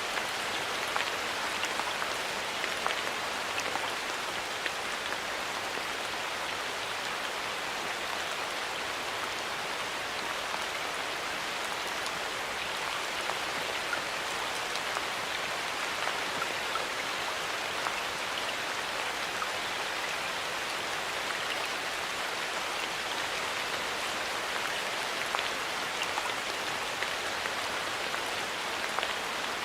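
Steady rain falling in a forest, an even patter of many drops with small individual drop ticks scattered throughout.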